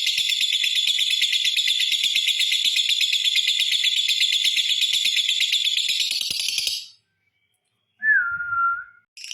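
Lovebird's long chattering song (ngekek): a shrill, rapid, unbroken trill that stops abruptly about two-thirds of the way in. After a second of silence comes one short falling whistled note, and the trill starts again just before the end.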